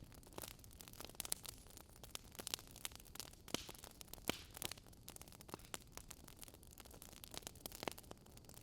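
Campfire crackling softly: irregular sharp pops and snaps of burning wood over a faint hiss, with a few louder pops scattered through.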